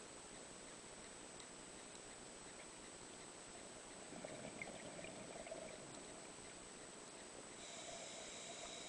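Faint underwater ambience during a scuba dive: a steady hiss with scattered small ticks, and a short swell of noise about four seconds in.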